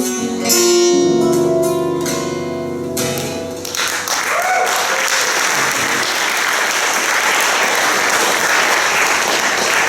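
Guitars playing the last bars of a fingerpicked rag and ending on a final chord about three and a half seconds in, then an audience applauding steadily.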